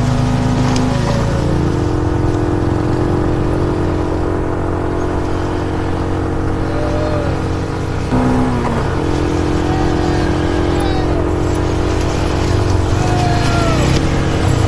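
Four-wheeler (ATV) engine running steadily while riding along a trail, its note shifting briefly about a second in and again about eight seconds in.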